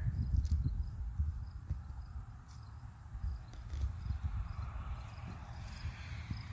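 Crickets chirping in short, evenly repeated pulses over a low rumble and soft rustling, as hands dig through hay-mulched soil.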